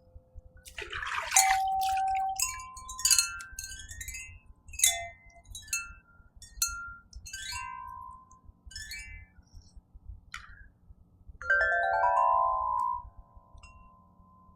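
Crystal harp notes struck one at a time, each a bright chime-like attack that rings briefly, with a quick rising run of notes near the end.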